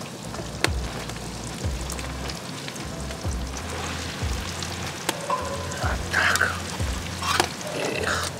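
Sliced button mushrooms sizzling in hot oil in a wide pan, with a few sharp clicks. Soft background music with a steady low beat plays underneath.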